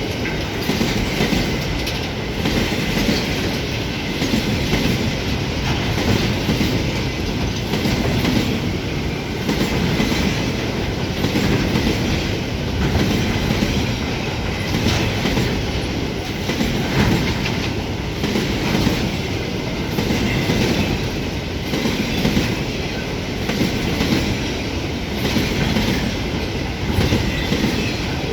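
Container freight train running past at speed, its wagons' wheels clattering over the rails. The sound is a steady loud rumble that swells and dips about every two seconds.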